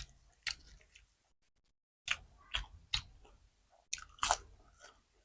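A person chewing food close to the microphone, with sharp, wet crunches at irregular intervals: about seven bites and chews, loudest around the middle and near the end.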